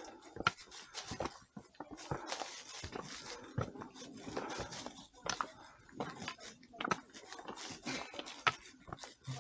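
Hikers' footsteps scuffing and clicking irregularly on the trail, with several sharper knocks.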